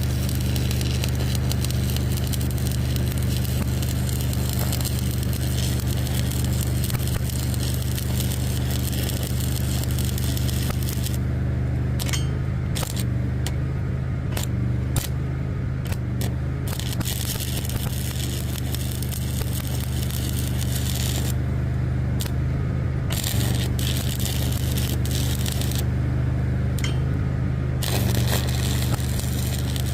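An engine running steadily, with a crackling, scraping hiss over it that stops and starts several times in the second half.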